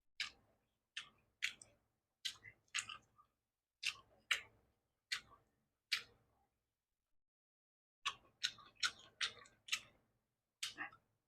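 Close-miked chewing: a string of short, crisp mouth sounds at an irregular pace, pausing for about two seconds midway.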